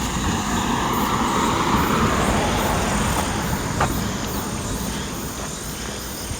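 A vehicle passing by, its rushing noise swelling over the first couple of seconds and then slowly fading away.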